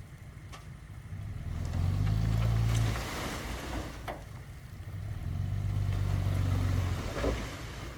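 Diesel engine of heavy earthmoving machinery running, its low drone swelling twice under load, with a burst of noise about three seconds in and a few short knocks.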